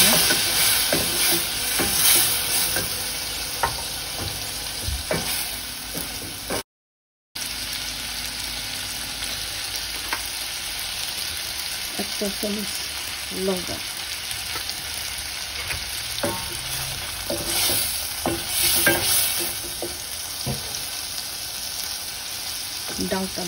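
Onion, ginger-garlic and spice paste sizzling in oil in a steel pot while a spatula stirs and scrapes it round the pan, with scattered clinks; this is the spice base being fried down for dal. The sound drops out for under a second about seven seconds in.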